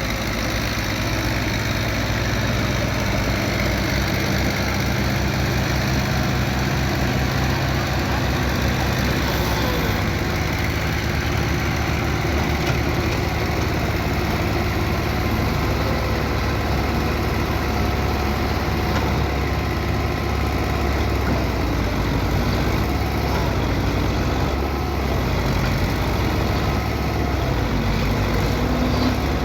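Tractor diesel engine running steadily with a low, even firing beat.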